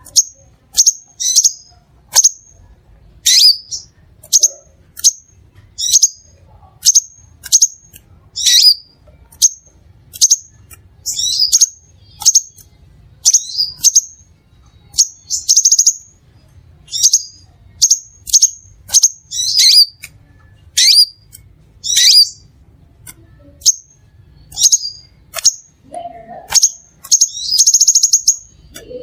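Crimson sunbird calling: short high chips repeated about once or twice a second, with a couple of brief trills mixed in, one about halfway through and a longer one near the end.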